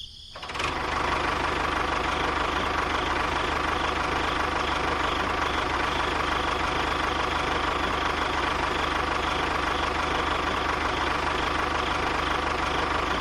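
Engine of a homemade mini tractor cultivator coming in about half a second in, then running steadily at an even speed.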